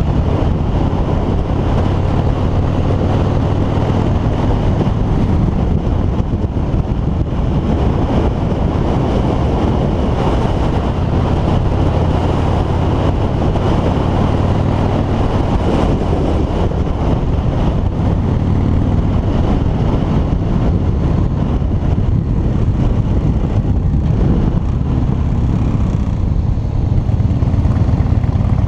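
Harley-Davidson V-twin motorcycle riding at a steady cruising speed: the engine and exhaust run evenly under wind rush on the microphone.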